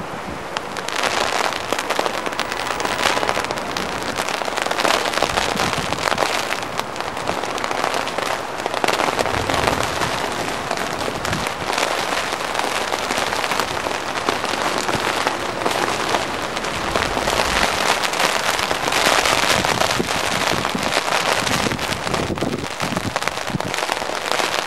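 A heavy snow shower pattering densely on surfaces: a steady crackling hiss of countless small hits that swells and eases a little.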